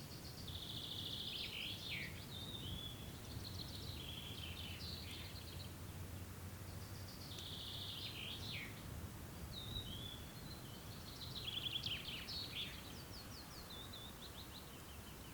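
A songbird singing about four short phrases of quick trills and chirps, with brief pauses between them, over a steady low rumble.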